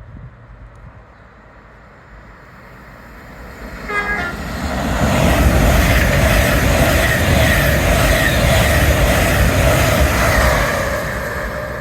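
A train gives a short horn blast about four seconds in, then passes through the station, its running noise building to a loud, steady level and easing off near the end.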